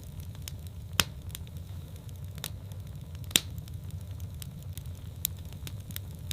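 Wood fire burning in a fireplace: irregular sharp crackles and pops over a low steady rumble of the flames, with two loud snaps about a second in and just over three seconds in.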